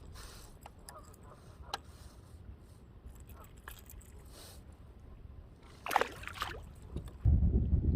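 Kayak paddling on a lake: soft drips, light knocks and water sounds from the paddle and hull. There is a louder short sound about six seconds in, and a low rumble starting about seven seconds in.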